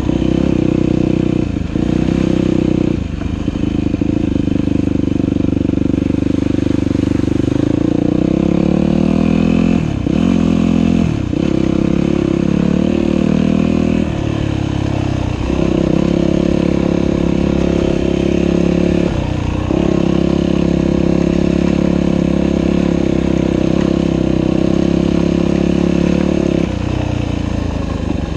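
Dirt bike engine running under throttle, its pitch rising and shifting with short dips as the throttle is closed, about ten, fifteen and nineteen seconds in, then easing off near the end.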